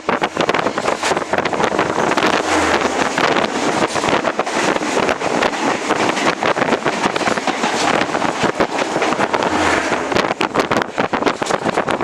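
Express train with ICF coaches running at speed, heard from on board: a steady rush of wind on the microphone over the continuous rattle and clatter of wheels and coaches on the track.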